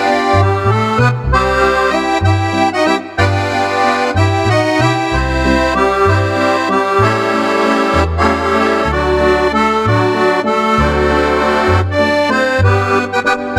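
Roland 8x digital accordion playing a Cordovox-style voice: sustained chords and melody over a moving bass line whose notes change every half second or so.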